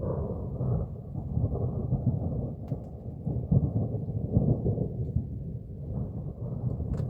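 Rolling thunder: a long low rumble that swells and fades, with rain falling. Two brief sharp ticks sound over it, one a few seconds in and one near the end.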